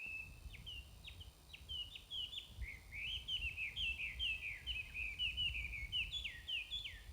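A songbird singing: one held note, then a long rapid run of quick falling notes. A low rumble of smartphone microphone noise lies under the song.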